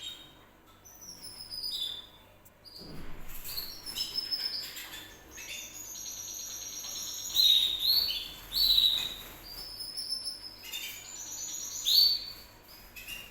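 Canary singing: a run of high chirps, whistles and quick trills, loudest in the second half.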